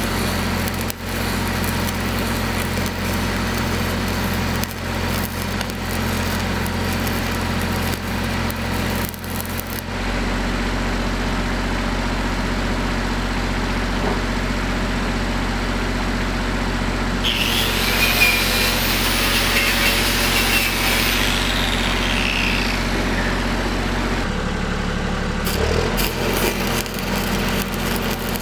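A diesel machine's engine running steadily, its hum shifting abruptly twice. A high screeching sound rises over it for a few seconds in the middle.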